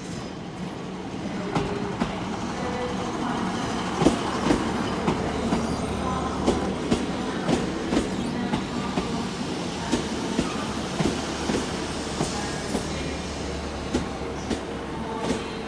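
Class 150 diesel multiple unit arriving at a platform: wheels clattering over rail joints and pointwork in an irregular run of clicks, over the low, steady drone of its diesel engines.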